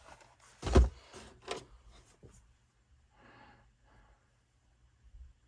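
A single heavy thump about a second in, then a lighter knock, as parts are handled; soft faint noise follows.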